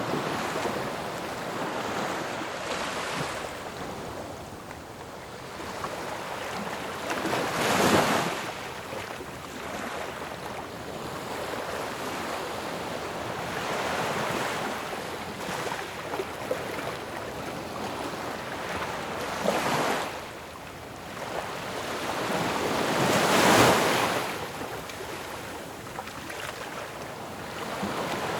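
Ocean waves breaking on a shore, a continuous hiss of surf that swells and falls, with two loudest crashes about 8 seconds in and about 23 seconds in.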